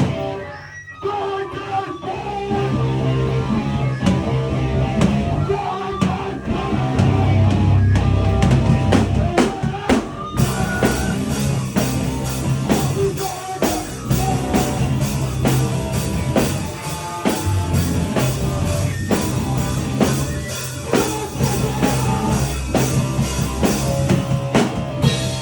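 Live powerviolence band playing loud distorted guitar and bass over a drum kit. About ten seconds in the drumming turns fast and dense.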